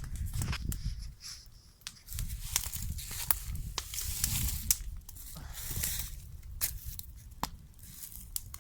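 Bonfire of cardboard and trash crackling, with irregular sharp snaps over rustling, tearing noises and a low rumble.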